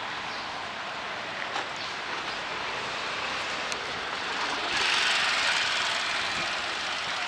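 Steady hiss of rain and a wet street, growing louder about two-thirds of the way through.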